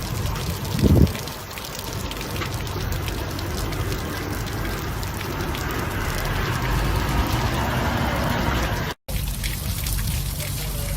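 Water splashing and rushing as a steady noise, with a dull thump about a second in. The sound cuts out for a moment near the end.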